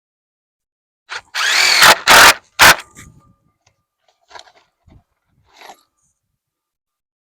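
Power drill run in short trigger pulls, its motor pitch rising and falling with each pull. The loudest bursts come between one and three seconds in, followed by a few faint knocks and rattles of work on the wood framing.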